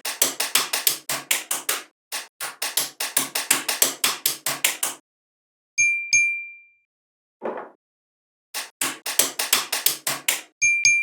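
A fast run of sharp clicks or taps, about five or six a second, that stops about halfway. A short bright ding rings out, then the clicking comes back briefly before more dings near the end.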